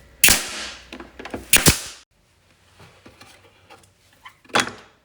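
Sharp wooden knocks as toolbox parts are handled: one about a quarter second in, a quick pair at about a second and a half, and one more near the end.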